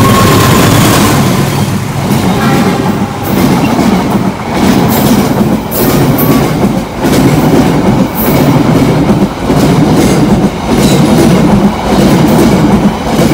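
A KAI CC 206 diesel-electric locomotive passing close by, loud and steady for the first couple of seconds. Its passenger carriages follow, rolling past with a regular clickety-clack of wheels over the rail joints, roughly once a second.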